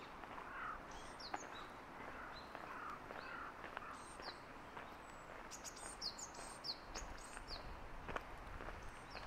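Birds calling with short, high, downward-sweeping chirps, most of them bunched together in the middle, a few lower calls in the first half, over the faint steps of someone walking.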